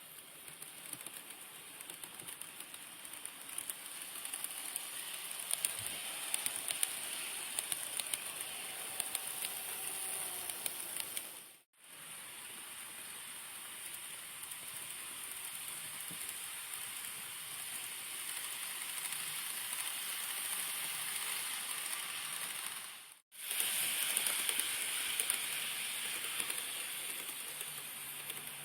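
N-gauge model train running along the track: a steady hiss of motor and wheels with a fast patter of small clicks from the rails, cut off abruptly twice by edits.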